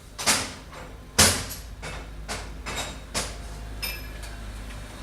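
Metal hand tools knocking and clanking on metal, about six irregular strikes roughly half a second apart, the loudest about a second in, then a short ringing clink near the end.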